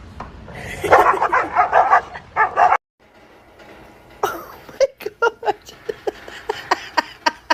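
A dog barking and yipping. The first burst of barking breaks off sharply about three seconds in, and a quick run of short barks follows in the second half.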